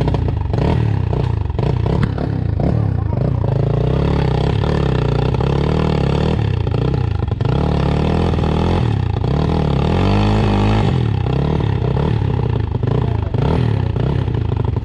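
Dirt bike engine revving up and down repeatedly, as on a slow, slippery climb. A run of sharp clicks sounds during the first few seconds.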